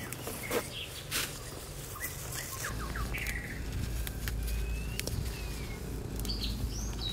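Small birds chirping, with scattered short clicks and rustles; a steady low rumble comes in about three seconds in.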